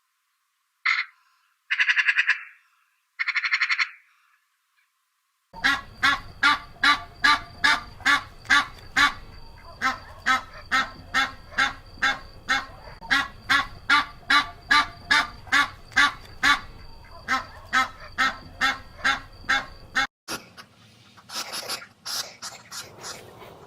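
Animal calls: three short calls in the first few seconds, then a long run of evenly spaced calls, about two a second, that stops suddenly near the end and gives way to a different, fainter call.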